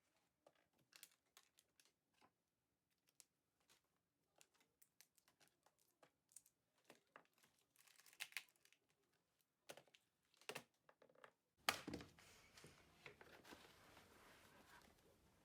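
Quiet scattered clicks and rustles of small objects being handled, with a louder stretch of steady rustling starting about three-quarters of the way through.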